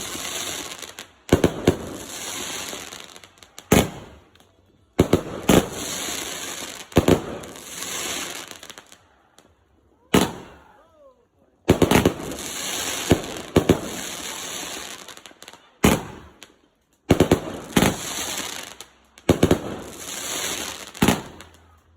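Consumer fireworks going off in volleys: sharp bangs, each followed by a second or two of dense crackling, with short quiet gaps between the volleys.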